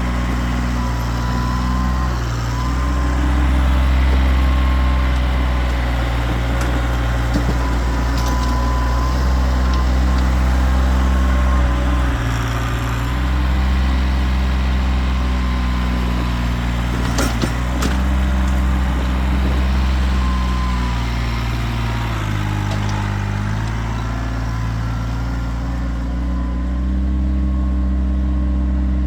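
Kioti tractor's diesel engine running steadily, its low hum shifting in strength every few seconds as the load changes, with a thin wavering whine above it. A sharp clank comes about two-thirds of the way through.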